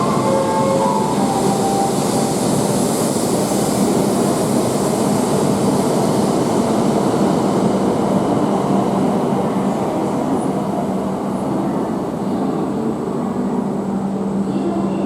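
Tohoku Shinkansen train running alongside the platform: a steady rushing noise with a constant low hum, easing off slightly in the later seconds.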